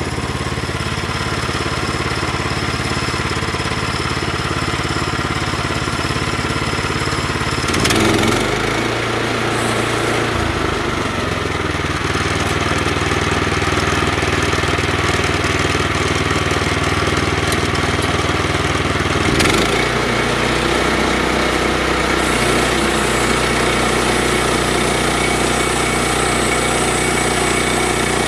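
An engine running steadily at idle. About 8 s in and again about 19 s in there is a short knock, and the engine note changes.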